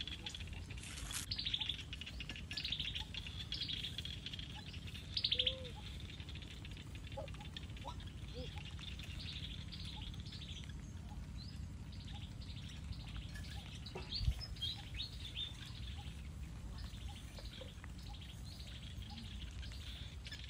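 Small birds chirping repeatedly, with a few quick trills, over a steady low background; a single knock about fourteen seconds in.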